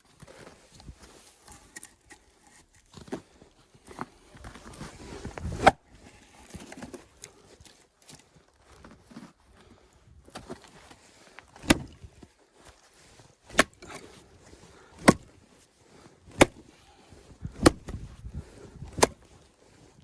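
An axe chopping firewood, with sharp single strikes: one strong hit about a third of the way in, then a steady run of blows about one every second and a half through the second half, amid small knocks and handling sounds.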